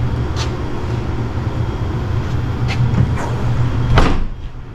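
Jeep Grand Cherokee's Chrysler 4.7 V8 running steadily, with a new coil pack in place of the one that was misfiring, and a few sharp clunks over it; the loudest clunk comes about four seconds in, after which the sound drops off.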